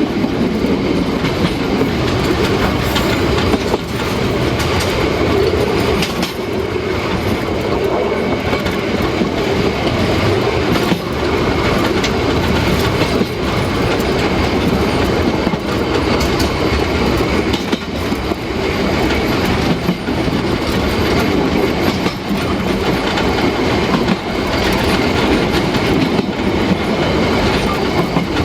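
Narrow-gauge steam train running steadily along the track, its wheels clattering over the rail joints under a continuous rumble.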